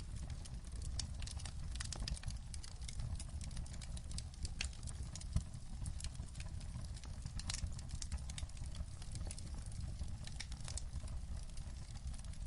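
Wood fire crackling in a fireplace: irregular sharp pops and snaps, a few louder ones scattered through, over a steady low rumble.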